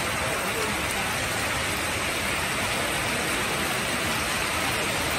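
Heavy rain pouring down steadily onto a waterlogged pitch, a constant hiss.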